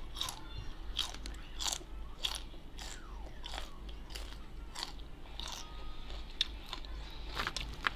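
A person biting and chewing a raw green vegetable stalk close to the microphone: irregular crisp crunches, roughly one or two a second.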